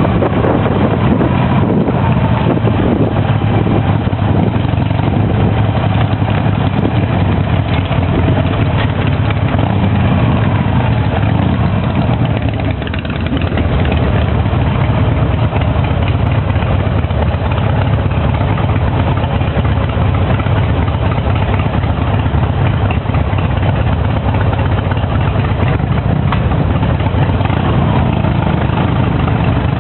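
Harley-Davidson V-twin motorcycle engine running steadily at low revs, with a brief dip in loudness about halfway through.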